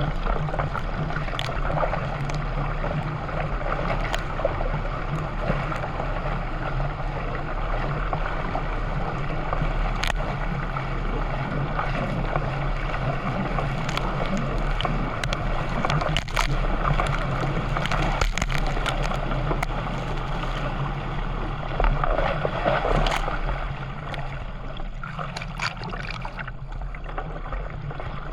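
Water sloshing and splashing around a canoe being paddled, with scattered small knocks and a steady low hum underneath.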